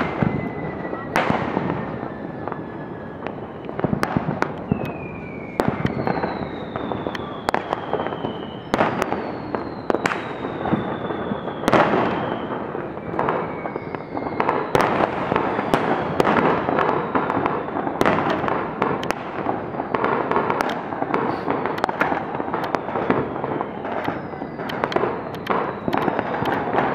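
Fireworks going off in a rapid barrage: many sharp bangs over continuous crackling, with several long whistles falling in pitch as shells go up.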